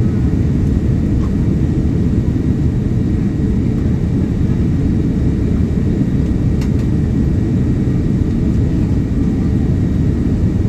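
Steady low rumble of a Boeing 787-9's cabin in flight: airflow and engine noise, heard from a window seat. One faint click about six and a half seconds in.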